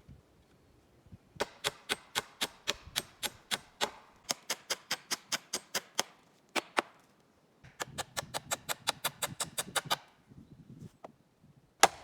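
A hand tool striking wood in quick sharp knocks, about five a second, in three runs with short pauses between them, then two louder knocks near the end.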